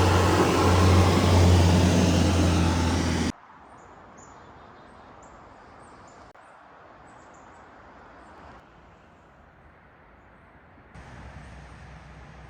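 A vehicle engine running loudly with a steady low hum. It cuts off abruptly about three seconds in, leaving a quiet outdoor background with faint, short high chirps.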